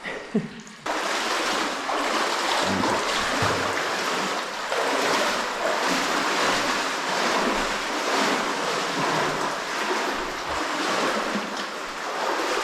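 Loud, steady rushing water of a rain-swollen cave spring stream, starting suddenly about a second in after a single knock.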